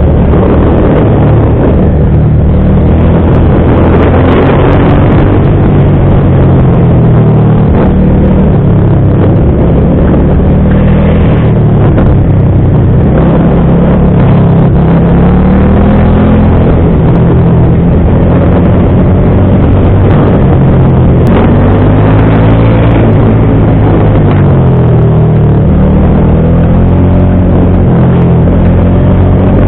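Motorcycle engine running under way, its pitch rising and falling again and again as the bike speeds up and slows.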